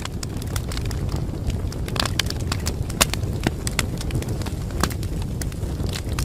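Wood fire burning in a fireplace: a steady low rumble of the flames with frequent irregular crackles and sharp pops, a louder pop about three seconds in.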